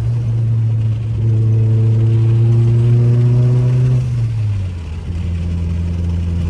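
Mitsubishi Lancer Evolution VIII's turbocharged 4G63 four-cylinder engine running at steady revs while driving, then the revs drop about four seconds in.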